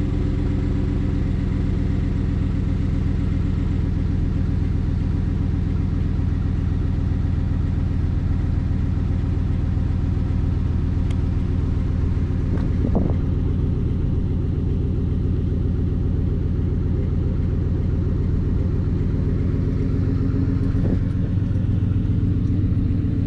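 Chevrolet Silverado pickup's engine idling steadily in the first minute after a cold start, its exhaust note sitting low and even.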